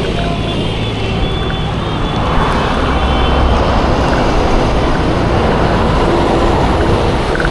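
Road traffic on a village road: a continuous engine and tyre rumble that swells from about two and a half seconds in as a vehicle draws close.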